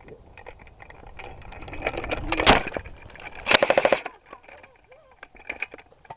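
Airsoft guns firing rapid automatic bursts. The clatter builds to a loud peak about two and a half seconds in, a close burst of fast, evenly spaced shots follows about a second later, and then scattered single shots.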